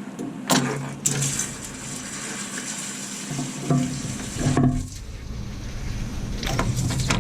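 Hot engine oil running and splattering out of the engine oil level switch port as the switch is unscrewed, with a few metal knocks and clinks from the wrench and switch, about half a second and a second in and again near the middle.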